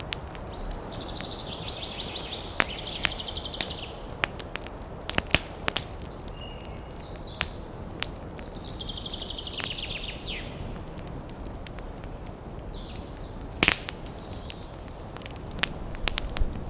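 Wood campfire crackling, with frequent sharp pops. A bird gives a rapid high trill twice, each about two seconds long.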